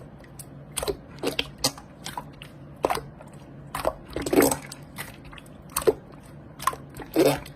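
Slime being squished and pressed, making irregular short crackles, pops and squelches.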